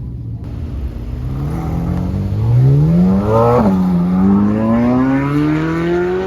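Car engine accelerating hard, its pitch climbing, dropping sharply at an upshift about three and a half seconds in, then climbing again through the next gear.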